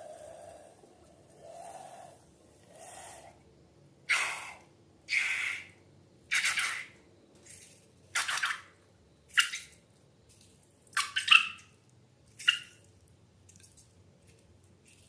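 Wet slime squelching in a run of short squishes, about one a second, the later ones sharper and louder.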